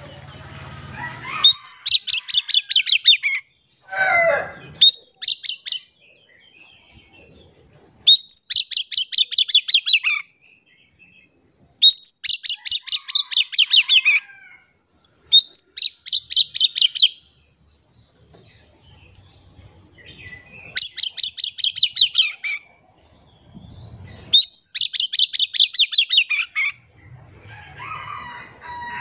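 Oriental magpie-robin (kacer) singing in loud bursts of fast, repeated high notes, about eight phrases separated by short pauses, in the rapid-fire song that keepers use as a lure to set other magpie-robins singing.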